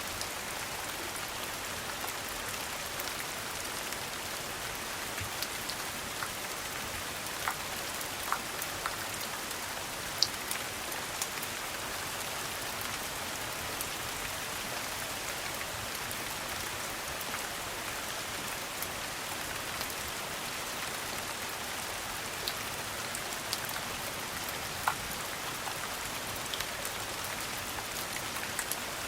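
Steady rain, an even hiss of rain falling on a surface, with a few scattered sharp ticks.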